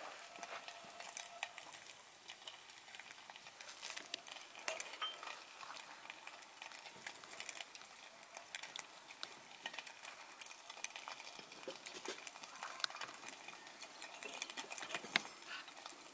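Wood fire crackling, with many irregular small pops and snaps over a faint hiss.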